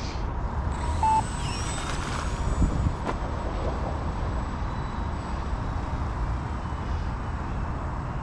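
Electric motor and propeller of a Horizon Hobby Turbo Timber Evolution RC plane in flight, a steady thin whine whose pitch slides as the plane passes, over low rumbling wind on the microphone. A short electronic beep sounds about a second in.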